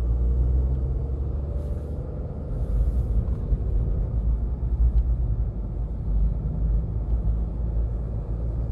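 Steady low rumble inside the cabin of a Volkswagen Lupo 3L on the move: its three-cylinder diesel engine and road noise, with a faint wavering tone above.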